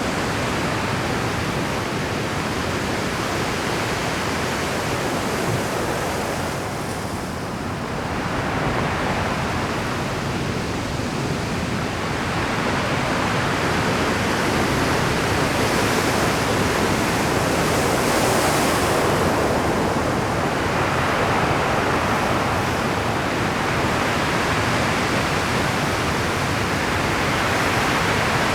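Rough Pacific surf breaking continuously on a rocky shore at high tide, with a short lull about seven seconds in and a heavier swell of crashing water building through the middle.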